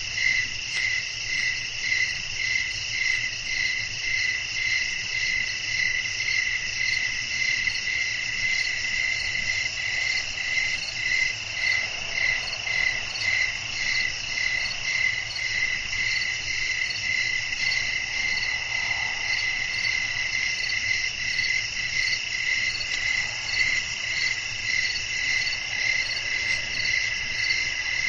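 A night chorus of crickets: one chirps in an even, quick pulse while others trill steadily at higher pitches, over a faint low background rumble.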